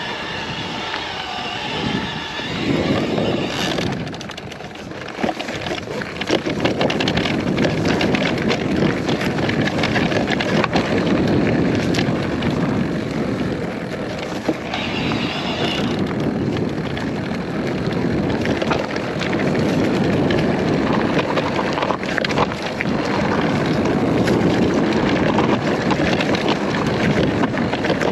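Electric mountain bike being ridden off-road: tyres rolling over rough ground with a steady run of rattles and clicks from the bike, and wind on the microphone.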